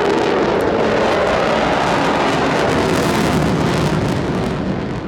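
MotoGP race motorcycles going by on the circuit, a loud steady engine noise that eases near the end.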